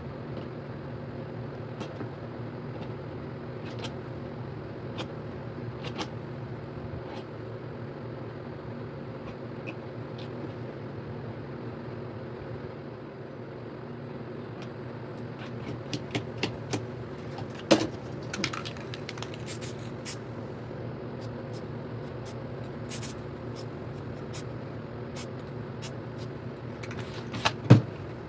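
A steady low mechanical hum, with a few sharp clicks and knocks in the second half and a loud knock near the end.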